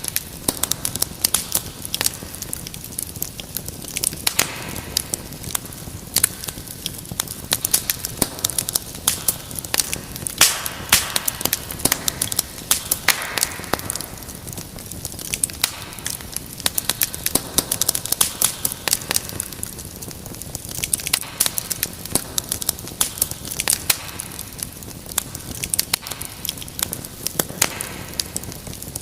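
Wood fire crackling, with frequent sharp pops and snaps over a low steady hiss.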